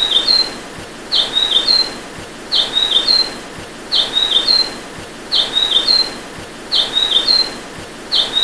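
Grey-headed canary-flycatcher calling: a short, high phrase of three quick notes, repeated evenly about every second and a half, over a steady background hiss.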